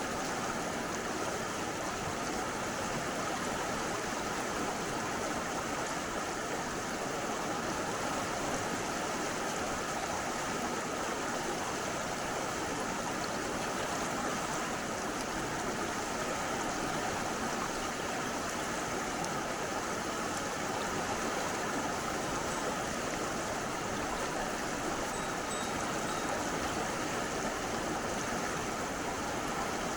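Mountain stream rushing steadily: an even, unbroken wash of flowing water.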